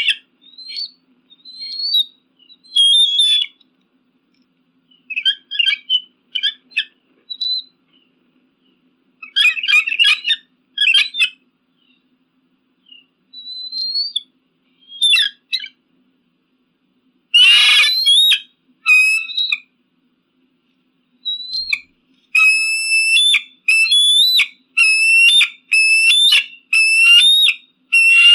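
Eagle calling: clusters of high, shrill, whistled and chattering notes separated by pauses. One harsher, rougher call comes about two-thirds through. Near the end a steady run of piercing calls repeats about once a second.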